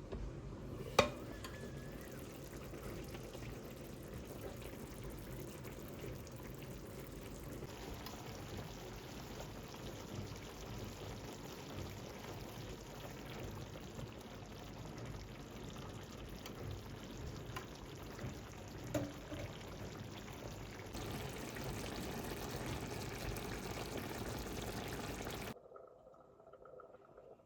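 Steady hiss of liquid cooking in a kitchen, with a sharp clink about a second in and a softer knock later on; the sound cuts off suddenly near the end.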